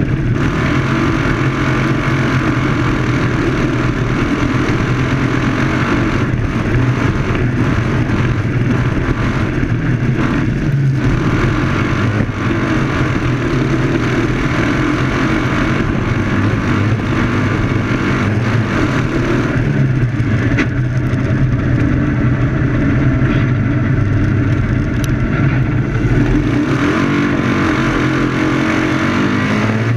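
Citroën 2CV-class autocross car's flat-twin engine running hard from the cockpit, its pitch rising and falling as the car accelerates and lifts for corners on the dirt track.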